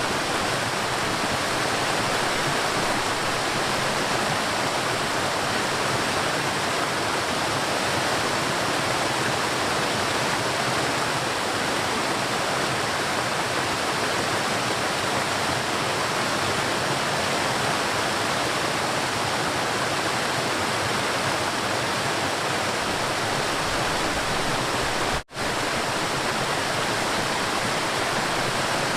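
A river's water rushing and flowing in a steady, even wash of sound. It drops out for an instant about 25 seconds in, then carries on unchanged.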